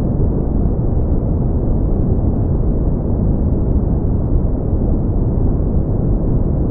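Steady brown noise: an even, deep rumbling hiss, strongest in the low end and rolling off above the midrange, with no changes or events.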